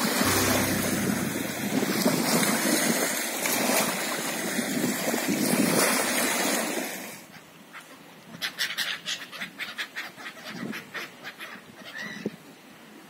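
Sea waves breaking and washing on the beach, a loud steady rush that cuts off abruptly about seven seconds in. A quieter run of short, quick rasping sounds follows.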